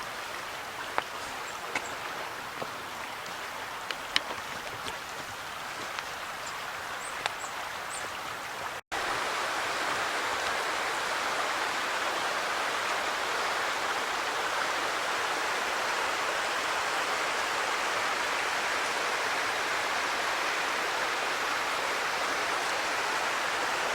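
Steady rushing of a woodland creek. About nine seconds in the sound cuts out for an instant and comes back louder.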